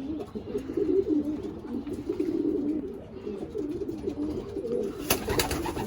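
Racing pigeons cooing in the loft, a continuous low warbling of several birds at once, with a few clicks and rustles near the end.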